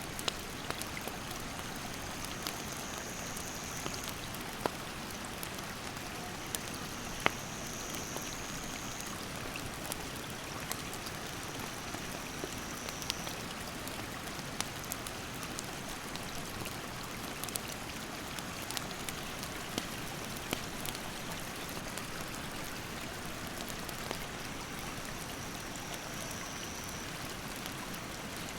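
Steady rush of a mountain stream, with a wood campfire crackling and popping in sharp, scattered clicks; the loudest pop comes about seven seconds in. An insect's high, steady call comes and goes over it.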